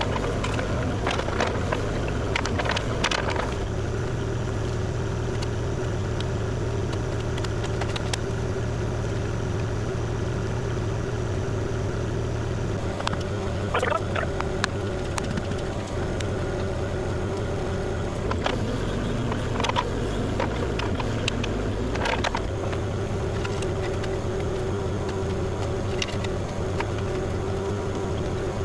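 Kubota KX040 compact excavator's diesel engine running steadily, with scattered sharp knocks and scrapes on top.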